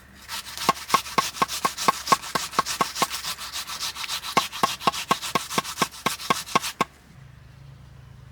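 Rapid rhythmic scraping strokes, about four a second, each with a short ringing note; they stop abruptly about seven seconds in.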